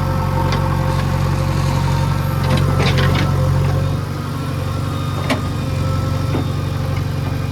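Heavy diesel engine of earth-moving machinery running steadily, easing off slightly about four seconds in. A short cluster of clanks comes around three seconds in, and single knocks follow later.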